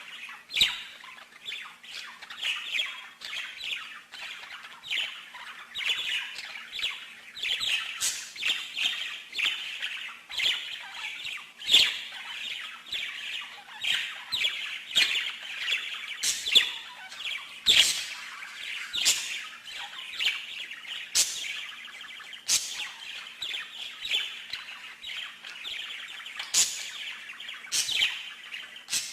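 Songbird singing a long run of quick chirps and trills, with sharp high notes every second or two.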